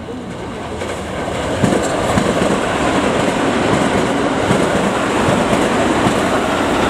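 JR West 281 series 'Haruka' limited express passing close by, its wheels clattering over the rail joints and turnouts in the station throat with repeated sharp clacks. It gets louder from about a second in as the cars come alongside.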